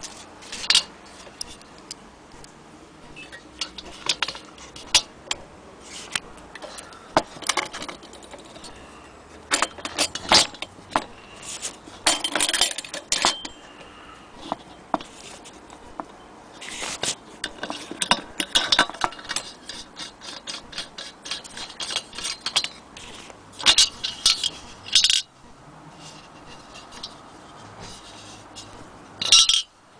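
Metal clinking, scraping and rattling at irregular intervals, with short loud clusters of clinks: parts of a vintage brass Primus camping stove being handled.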